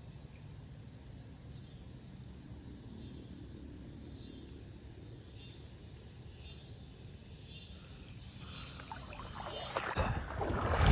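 Steady high-pitched insect chorus, cricket-like, drones on unchanged. About nine seconds in, a loud rough rustling noise starts and grows louder toward the end.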